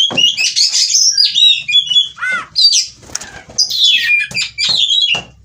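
Oriental magpie-robin (kacer) singing in a fast, varied run of high whistles, chirps and slurred notes, with a short pause midway.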